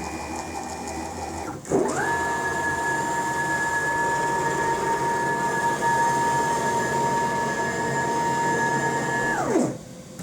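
CNC router's stepper motors whining as the machine makes a long powered move, a steady two-note whine that comes on about two seconds in, holds level and cuts off near the end. The move is part of the machine re-running its automatic tool-length measurement.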